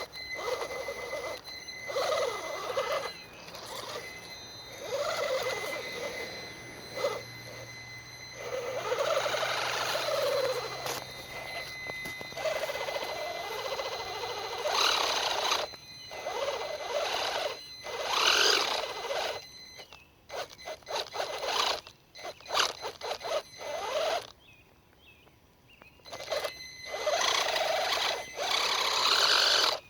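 WLtoys 12428 RC truck's electric motor and drivetrain whining in repeated throttle bursts that rise and fall in pitch, as it crawls through wet mud with its rear differential locked. A thin steady high tone runs underneath, and there is a brief near-silent pause about three quarters of the way through.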